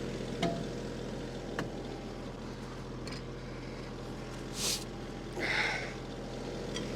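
Kubota L3301 tractor's three-cylinder diesel engine idling steadily, with a few light clicks. About four and a half seconds in comes a short hiss, then a longer rasping noise a second later.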